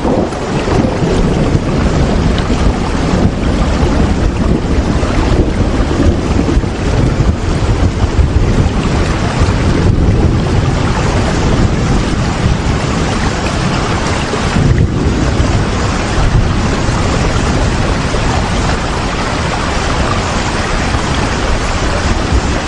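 Heavy rain as a continuous dense hiss with a strong low rumble underneath, its level surging and easing irregularly.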